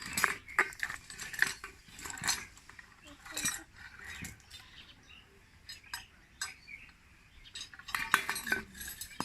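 Irregular light metallic clinks and taps, with a quieter stretch in the middle and a cluster of louder taps near the end.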